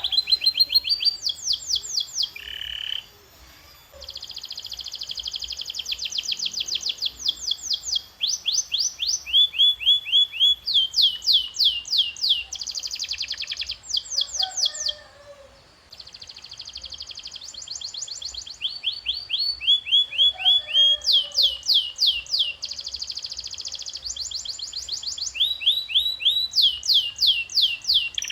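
Canary singing: a long song of rapid trills, each run a fast repeat of one sweeping note before switching to the next, with two short pauses, a few seconds in and about halfway through.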